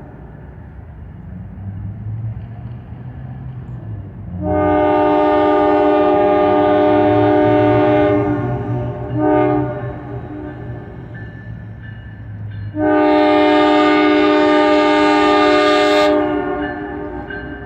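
Diesel locomotive's five-chime Nathan K5LA air horn sounding a long blast, a short blast and another long blast, the close of a grade-crossing signal. The locomotives' diesel engines rumble underneath as the intermodal train approaches.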